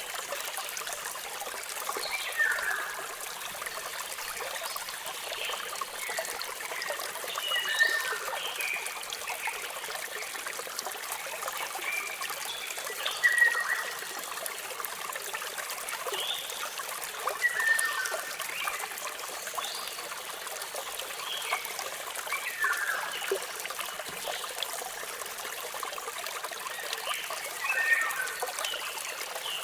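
Running water trickling steadily, with short bird chirps every few seconds.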